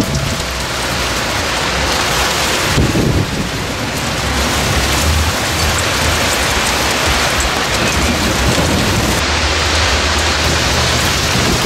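Very heavy rain pouring down, a dense, steady hiss, with a low rumble underneath.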